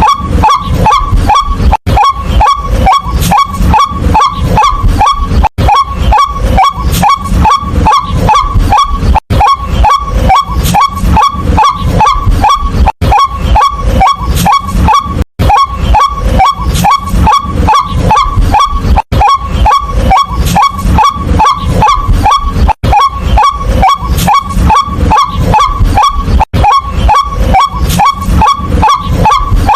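White-breasted waterhen calling, a loud, rapid string of short "kwak" notes several times a second. The strings are broken by brief gaps about every four seconds.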